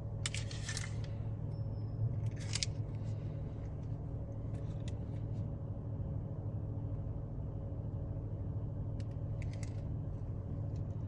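Steady low hum inside a car's cabin, from the car in neutral and the car-wash machinery, broken by four short clusters of light clicks and rattles.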